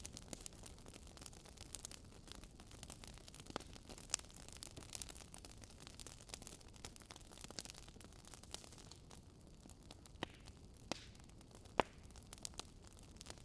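Campfire burning: a steady low hiss with frequent sharp crackles and pops of burning wood, a few louder pops scattered through.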